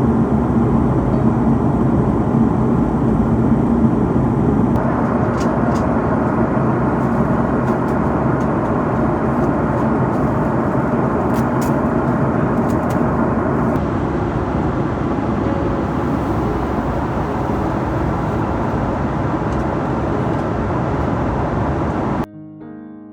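Loud, steady rumble of jet engines and rushing air inside the cabin of an Airbus A330-300, with a few faint rattles. It cuts off abruptly near the end.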